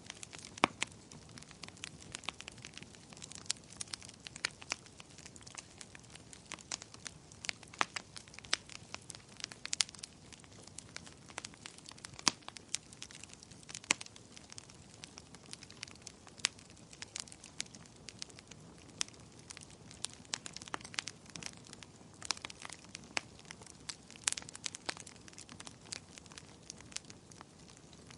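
Fire in a fireplace crackling: irregular sharp pops and snaps, several a second, over a soft steady hiss.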